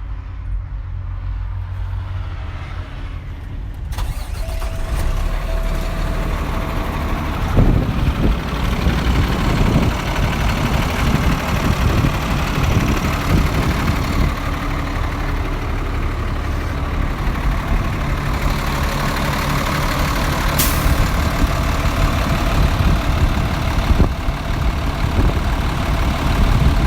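Kenworth T370's Paccar PX-8 diesel being started: cranking with a steady tone sounding alongside, catching about seven seconds in and then idling steadily. A brief hiss cuts in about two-thirds of the way through.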